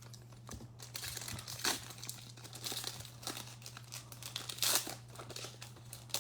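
A foil trading-card pack wrapper crinkling and tearing open by hand, in irregular crackles with a couple of louder rips, over a steady low electrical hum.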